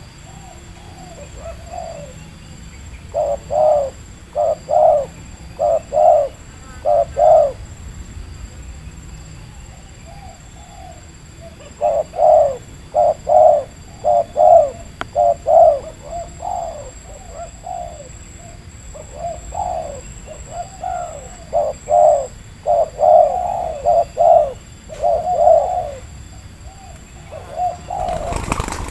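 Spotted doves (tekukur) cooing: several runs of short, rhythmic coos, each run a few seconds long, with quieter pauses between.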